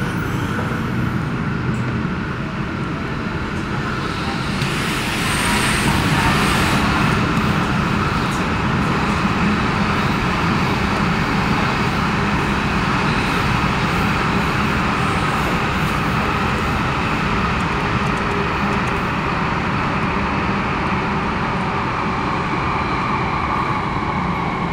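MTR K-Train (Rotem-built EMU) running at speed, heard inside the passenger cabin: a steady rumble of wheels on rail with a steady whine over it. It gets louder about four seconds in, with a brief rush of hiss soon after, and the whine dips slightly in pitch near the end.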